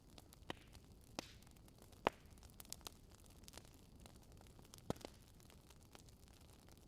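Wood fire crackling in a fireplace: irregular sharp pops and snaps over a faint hiss, with two louder pops about two and five seconds in.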